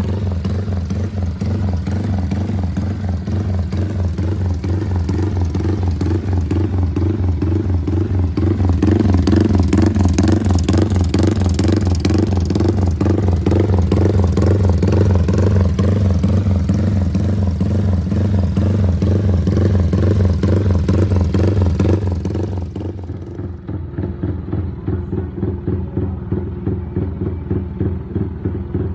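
Yamaha Y15ZR's single-cylinder 150 cc four-stroke engine running through a loud aftermarket Ysuku exhaust, a rapid steady thumping idle. Through the middle the revs rise and fall gently and the sound grows louder, then it changes abruptly to a duller idle for the last few seconds.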